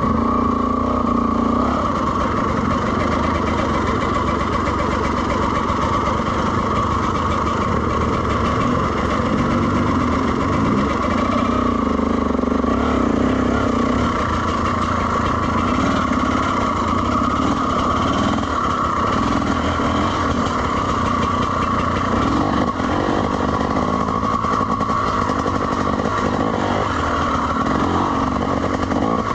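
Dirt bike engine running steadily at moderate throttle as the bike is ridden along a trail, its pitch rising and falling slightly.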